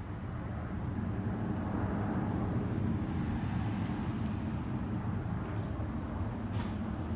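Boeing 787-9 Dreamliner jet engines at takeoff power: a steady low rumble that grows a little louder in the first couple of seconds and then holds.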